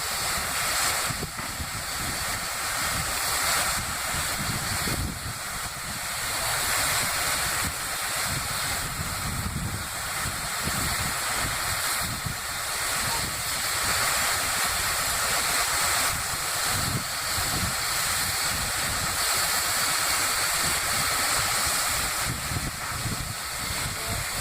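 Steam locomotive Tornado hissing steam steadily, with an uneven low rumble underneath.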